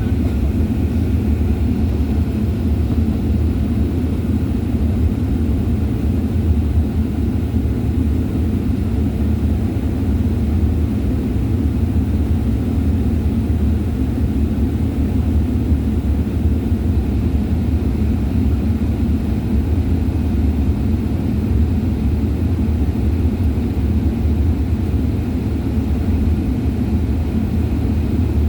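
Airliner cabin noise: a steady low rumble of jet engines and airflow, unchanging throughout.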